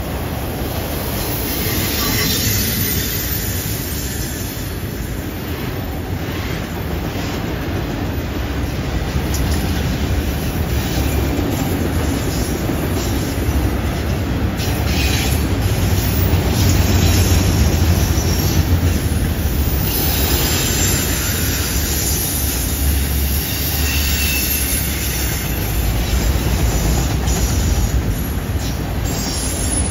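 Long string of autorack freight cars rolling past on a curve: a steady rumble of wheels on rail, with wheel squeal from the curve at times.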